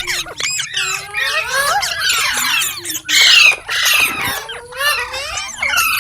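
Pet green parrot chirping and squawking in a quick run of rising and falling calls, with a louder squawk about three seconds in.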